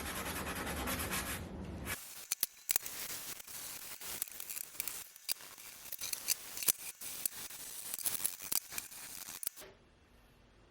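Sanding of a hickory axe handle: a steady, dense rasp for about two seconds, then lighter, uneven scratchy strokes that stop shortly before the end.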